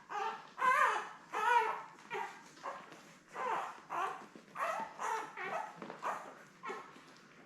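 Ten-day-old Labrador retriever puppies whining and squeaking in about a dozen short calls that bend up and down in pitch, one after another, as they jostle for teats while nursing.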